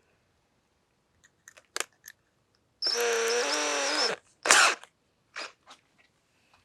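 Power drill running for about a second and a half and winding down, with small clicks before it and a sharp click after it as the drill bit is swapped for a larger size.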